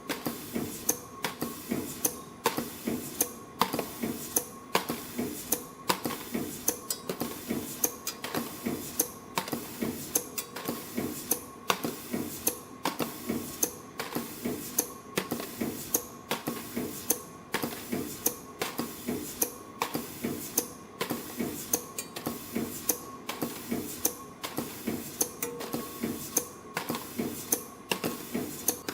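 YHM PR-24 CNC flat ring / wave spring machine running, coiling flat wire into piston rings. A sharp click repeats about every second and a quarter, with lighter ticks between, over a steady machine hum and a faint high tone.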